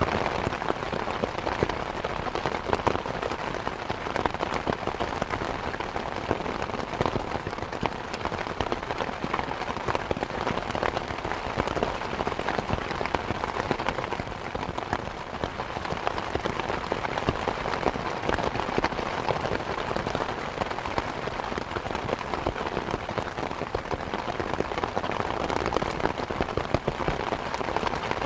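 Steady rain falling, a dense continuous patter of many drops hitting surfaces.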